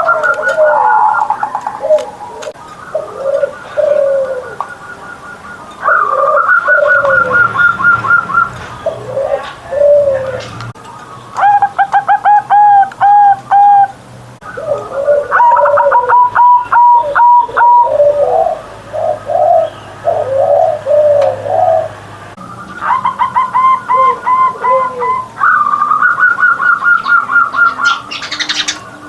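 Zebra doves (perkutut) cooing, several calls overlapping: repeated bursts of quick, rapidly repeated notes, with lower, slower coos in between.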